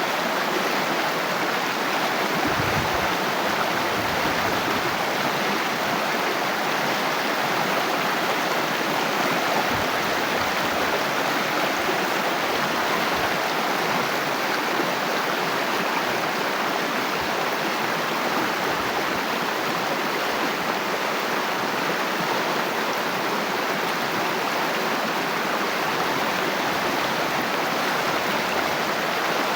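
Water flowing steadily in a stream, a continuous even rushing with no breaks.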